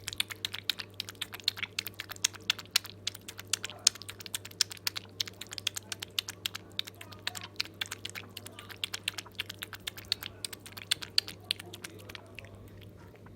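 A dog eating and lapping from a bowl: a quick, irregular run of clicks from tongue and jaws that stops near the end.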